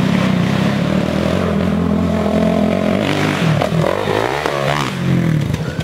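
Sport four-wheeler's 450 cc single-cylinder four-stroke engine running hard under throttle, then revving up and down several times in quick succession about three and a half seconds in.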